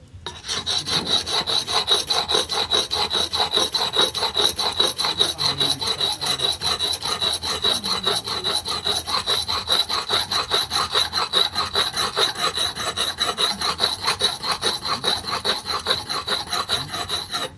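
Hand filing: a file worked rapidly back and forth in even strokes, about four a second, with a steady high ring through the rasping. It starts about half a second in and stops abruptly at the end.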